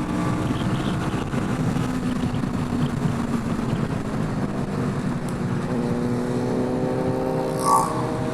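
Royal Enfield Himalayan 450's single-cylinder engine running at riding speed with steady wind rush, its note rising a little in the last couple of seconds. A brief higher-pitched sound cuts in near the end.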